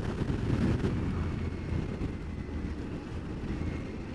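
Wind rumble on the camera microphone of a moving motorcycle, with the Aprilia Tuareg 660's parallel-twin engine running underneath; a steady low rumble, easing slightly about two seconds in.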